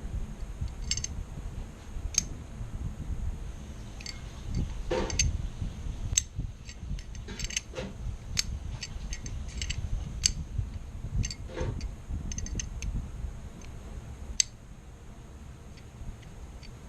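Irregular small clicks and taps of AR-15 rifle parts being handled during cleaning, with a few brief rustles, over a steady low rumble.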